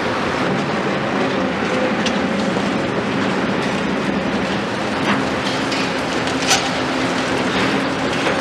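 Large Volvo EC 700 excavator's diesel engine and hydraulics running steadily under load, with a few sharp knocks and clanks, the loudest about six and a half seconds in.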